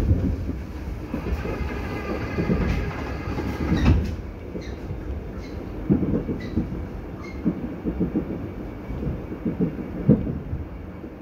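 Passenger train running on rails, heard from on board: a steady low rumble, with a whine during the first few seconds that cuts off suddenly, then a series of wheel clacks over rail joints.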